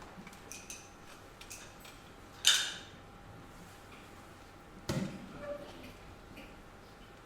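Scattered knocks and clicks over a faint steady hum: a sharp loud clack about two and a half seconds in, then a duller thump near five seconds.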